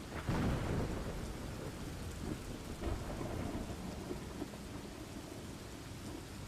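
Steady rain ambience with rolling thunder: a low rumble swells about half a second in and fades slowly over the next couple of seconds while the rain keeps on.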